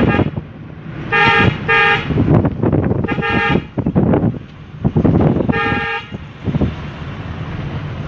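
A vehicle horn honking four times: a quick double toot about a second in, a longer toot around three seconds and another near six seconds. Underneath is steady rumbling road and wind noise.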